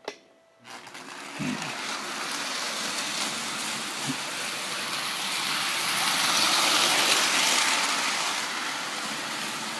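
Lionel Flying Yankee O-gauge electric toy train running on plastic FasTrack, its motor and wheels making a steady whirring rumble. The sound comes up about a second in, grows louder toward the middle as the train comes close, then eases slightly.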